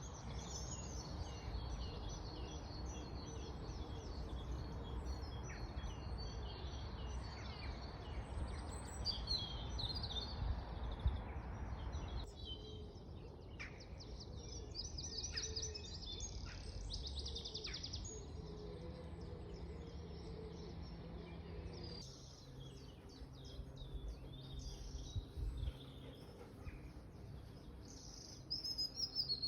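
Several songbirds singing and chirping, with quick repeated trills and short calls. For about the first twelve seconds a steady rushing noise runs underneath, then it drops away suddenly and the birdsong carries on over a quieter background.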